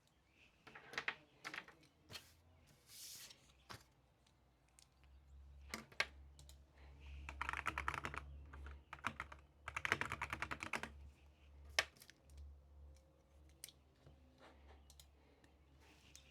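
Typing on a computer keyboard: runs of rapid keystroke clicks about a second in, then longer runs around eight and ten seconds in, with single taps between them. A faint low hum sits underneath in the middle.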